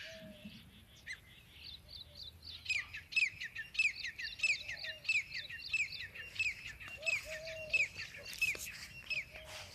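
Songbird calling in a repeated series of short, downward-sweeping chirps, about three a second, growing louder a couple of seconds in after a quicker, fainter run of higher chirps.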